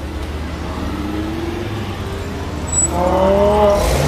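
Lamborghini Aventador Roadster's V12 engine revving as the car accelerates away, rising in pitch through two pulls and louder from about three seconds in.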